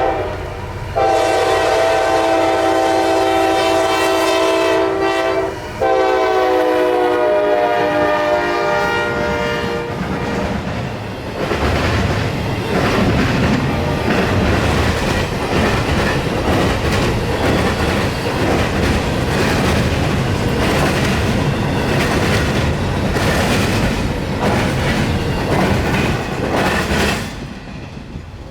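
A CSX intermodal freight train's locomotive horn sounds long chord blasts, the last one falling in pitch as the locomotive passes. Then the train's cars roll by with a steady rumble and a rapid clatter of wheels over the rail joints, easing off near the end.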